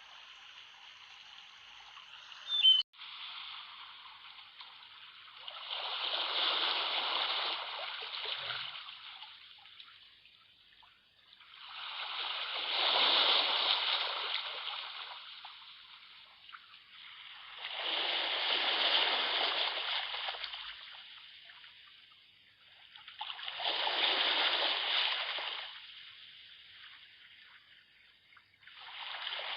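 Sea waves washing in and drawing back, the rush swelling and fading about every six seconds. A single sharp click about three seconds in.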